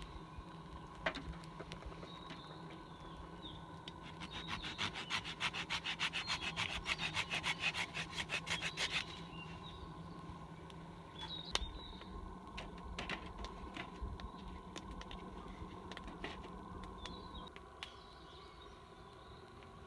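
A hand saw cutting wood with quick, even strokes for about five seconds, followed by scattered clicks and knocks of wood being handled.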